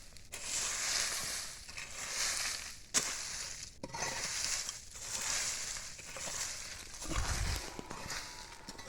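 A hoe scraping and dragging through dry leaves and soil in repeated strokes, about one a second, clearing ground for a firebreak. One sharp knock about three seconds in.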